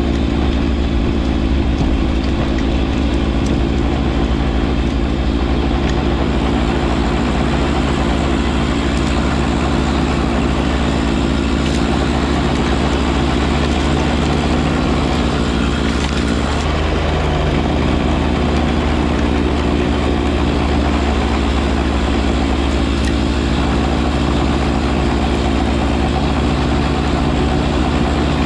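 John Deere 1025R compact tractor's three-cylinder diesel engine running steadily while working a front snow blower; its note shifts slightly about 17 seconds in.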